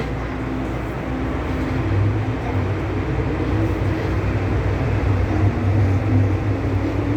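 MTR M-Train running on the Tsuen Wan Line: steady rumble of the train in motion, with a low hum that grows stronger about two seconds in.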